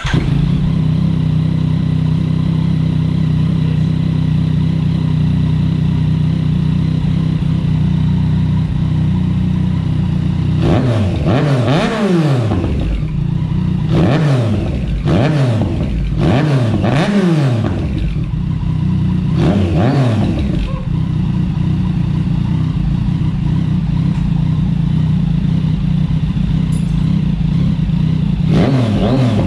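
A 2019 Yamaha MT-09's inline-three engine running through a newly fitted aftermarket full exhaust (a copy of an Akrapovič carbon system), idling steadily. After about ten seconds it is revved four times in quick succession, each rev rising and falling back, then settles to idle before another rev near the end.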